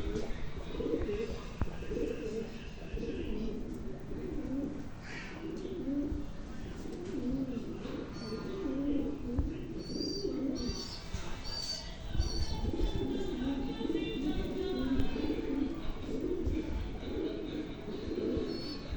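Pigeons cooing over and over, several calls overlapping. A few high chirps come in about eight to twelve seconds in.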